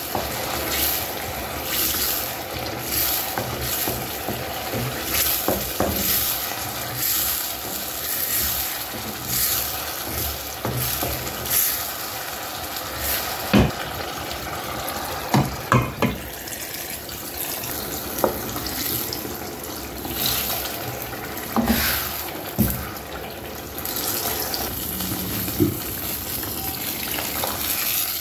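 Tomato paste sizzling as it fries in hot oil in a stainless steel pot, with a wooden spoon stirring and scraping through it in regular strokes. A few sharp knocks of the spoon against the pot stand out about halfway through.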